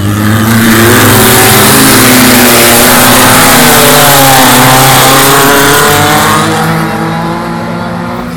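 Volkswagen race car's engine running hard at full throttle as it passes close by, very loud, its pitch rising and then falling away, and fading over the last couple of seconds as the car moves off.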